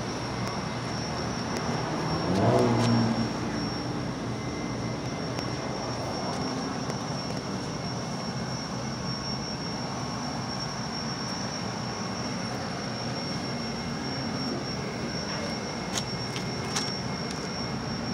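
1962 Chevrolet Impala convertible's engine idling steadily, rising briefly in pitch and loudness in a short rev about two and a half seconds in. Two light clicks near the end.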